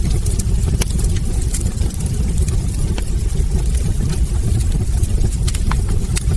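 Wood fire in a fireplace crackling, with many small sharp pops and clicks over a steady low rumble of the burning logs.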